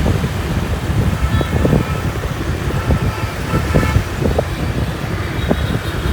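Riding a motorbike through city traffic: wind buffets the microphone over engine and road noise, with faint horn toots from other vehicles.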